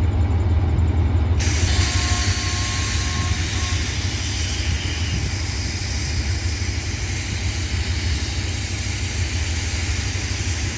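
Diesel passenger train at a station: a low, steady engine rumble. About a second and a half in, a loud, steady hiss of air begins suddenly and keeps going.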